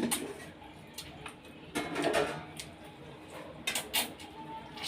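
A person eating rice and curry: intermittent chewing and mouth smacks, with a few short sharp clicks and a louder wet burst about two seconds in.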